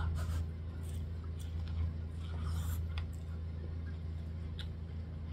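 Someone biting corn kernels off a buttered cob and chewing, giving soft wet mouth sounds and small clicks, over a steady low hum.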